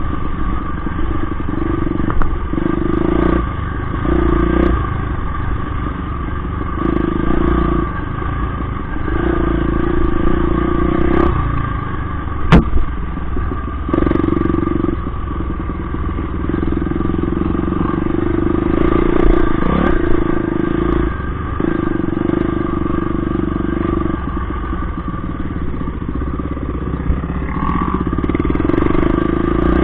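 Motorcycle engine running steadily, its note swelling and easing every second or two, with one sharp click about twelve seconds in.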